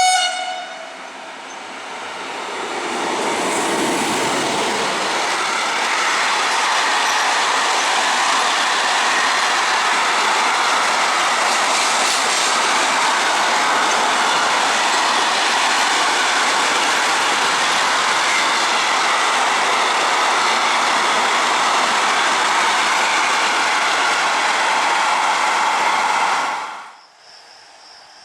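A train horn sounds briefly at the very start, then a train passes through the station: a loud, steady rush of wheels on rails that builds over a couple of seconds, holds for about twenty seconds and stops abruptly near the end.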